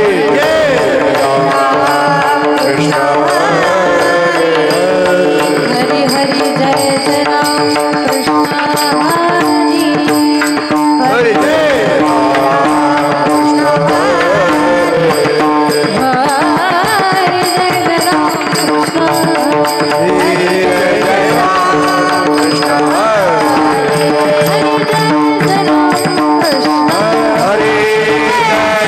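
Kirtan music with tabla: a continuous beat under held drone tones and a wavering, ornamented melody line, without sung words.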